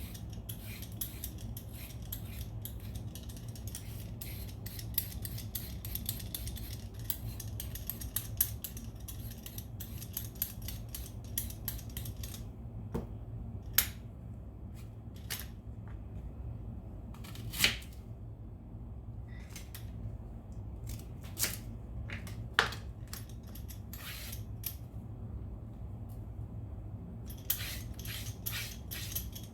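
Hand vegetable peeler scraping along root vegetables in quick runs of short strokes, with a pause of scattered single clicks in the middle, over a steady low hum.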